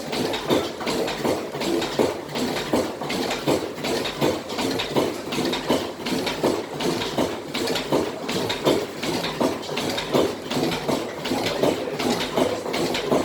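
1929 National NV stationary oil engine (12-inch bore, 20-inch stroke) running steadily, with a regular rhythm of knocks and clatter from its running gear.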